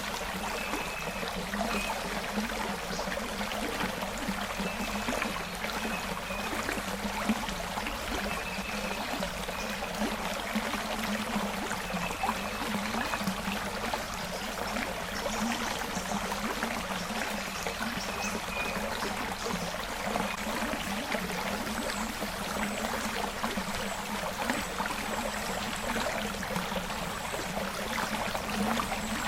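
Forest creek running steadily: a continuous, even rush of flowing water.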